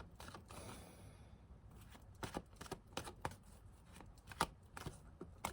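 Tarot cards being shuffled and handled: a soft rustle, then a run of short, irregular card clicks and flicks.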